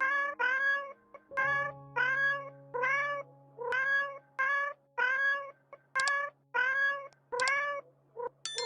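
An animal giving short, high, mewing calls over and over, about two a second, each call bending up in pitch. Background music with long held notes plays underneath.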